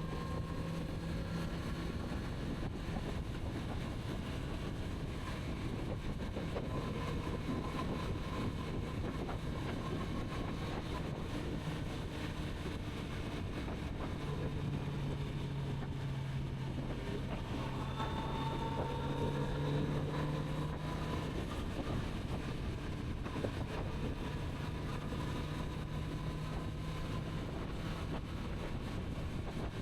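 Kawasaki Z900RS inline-four motorcycle engine running steadily while riding, with wind rushing past the microphone. The engine note dips lower for several seconds around the middle, then rises again.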